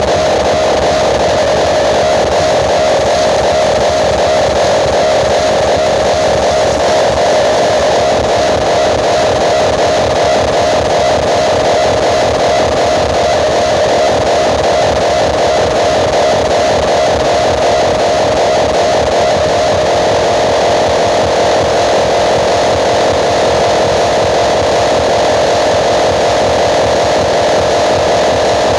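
Huge outdoor-cinema loudspeaker rigs playing at full volume, heard as a steady, heavily distorted wash of noise with a strong midrange hum and no clear tune. The sound shifts a little about twenty seconds in.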